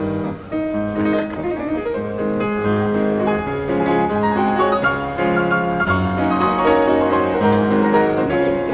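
Piano music, a melody of held notes.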